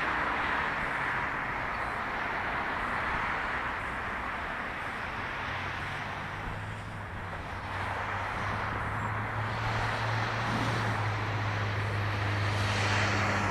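Road traffic noise with wind on the microphone, joined about five seconds in by a steady low engine hum from a vehicle.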